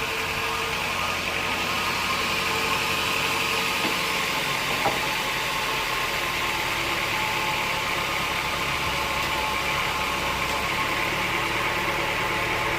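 Band sawmill running steadily: a continuous machine drone with a steady whine, unchanging throughout, with a faint click about five seconds in.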